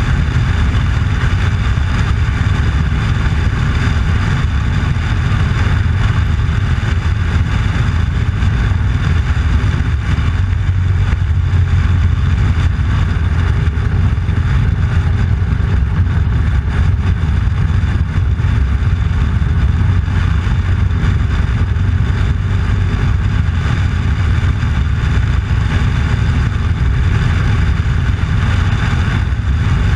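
Motorcycle engine running at a steady cruising speed, a constant low rumble with road and wind noise over it.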